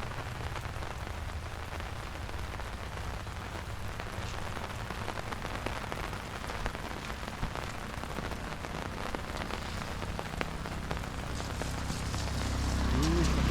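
Steady rain falling, with many small drops ticking on surfaces. Near the end a low sound swells up and rises in pitch.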